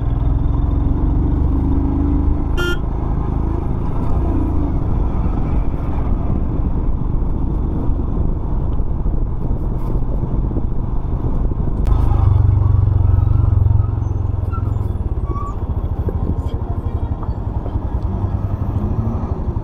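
Royal Enfield Himalayan's single-cylinder engine running steadily on the move, with wind and road noise. A short sharp sound comes about three seconds in, and the engine grows louder for a couple of seconds around the middle.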